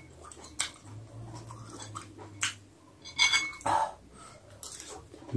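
A man chewing and smacking his lips on a mouthful of food, with a few short sharp clicks scattered through.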